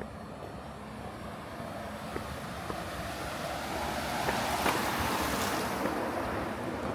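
A vehicle passing by: a rush of tyre and road noise that swells to its loudest a little past the middle and then fades.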